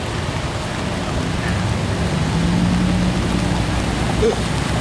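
Steady rain falling, an even hiss, with a low hum that swells around the middle.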